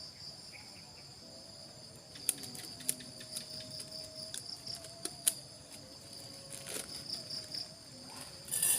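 Insects chirping in a steady, pulsing high-pitched chorus, with a few sharp clicks about two, three and five seconds in and a louder rustling burst near the end.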